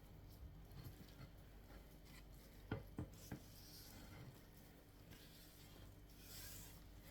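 Faint rubbing and scraping as chicken is added into a bowl of mashed potato, with three soft knocks close together about three seconds in; otherwise near silence.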